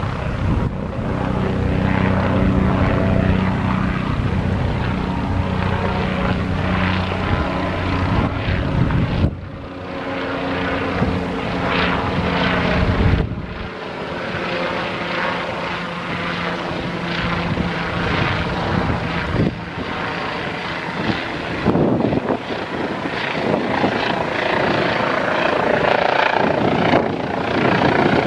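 Bell 407 helicopter running close by: the turboshaft engine's whine with the rotor beating. The sound is loud and steady and drops out abruptly twice.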